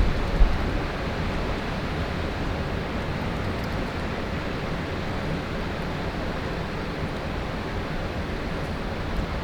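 Strong wind blowing over the microphone: a steady rush with a low buffeting thump about half a second in.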